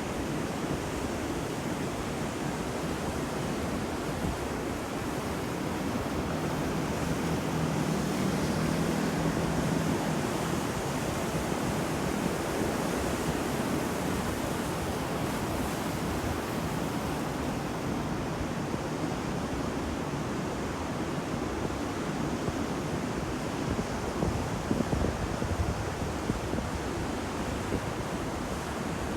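Ocean waves breaking and washing on a shore, a steady surf that swells a little louder about a third of the way in.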